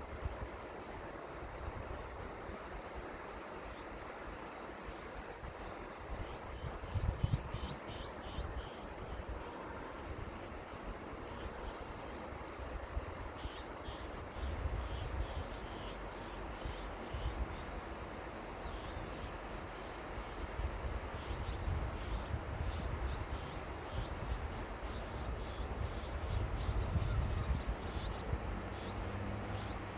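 Steady rush of the Seomjin River's flowing water, with wind buffeting the microphone in low rumbling gusts, strongest near the end. Faint, quick high chirps repeat through the middle.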